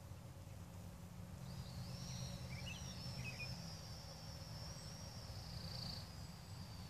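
A bird singing: a thin, high, wavering whistle that begins about a second and a half in and slowly falls away, with a few short chirps partway through, over a low steady rumble of wind on the microphone.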